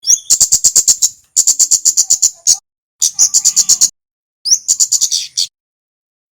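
A male kemade songbird calling in quick bursts of high, dry chips at about ten a second, each burst about a second long and opening with a short rising note, four bursts with short pauses between them.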